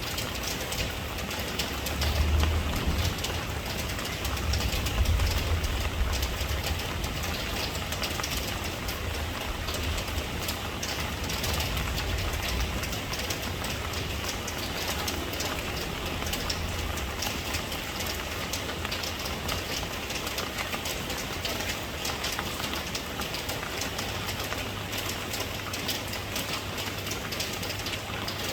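Steady rain, a dense patter of drops with a low rumble underneath that swells a couple of seconds in and fades again.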